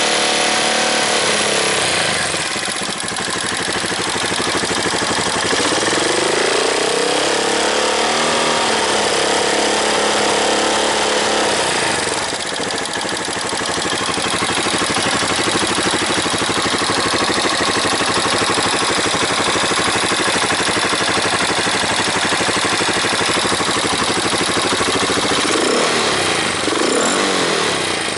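Honda CB223S single-cylinder engine running through an aftermarket Leo Vince muffler, loud and rough. It is revved up and back down a few seconds in, and blipped again briefly near the end.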